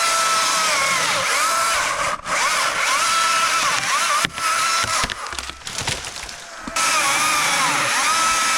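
Battery-powered electric chainsaw cutting, its high motor whine dipping in pitch each time the chain bites into the wood and rising again as it frees up. There are short breaks in the cutting, and a quieter stretch of about two seconds past the middle.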